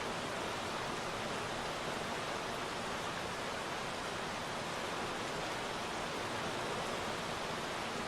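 Steady rain falling into puddles, an even hiss with no separate drops standing out.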